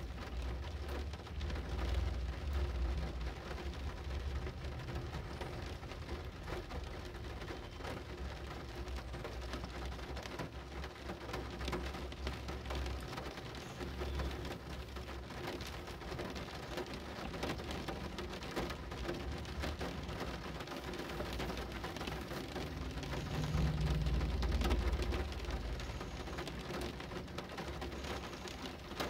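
Steady rain falling, with many separate drops pattering close by. A low rumble runs underneath, swelling for a couple of seconds near the start and again near the end.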